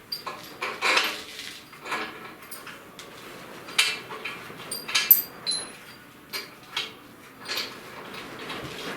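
Metal parts and hand tools clinking, knocking and scraping at irregular intervals during hands-on fitting work, some clinks ringing briefly. The sharpest clinks come about four and five seconds in.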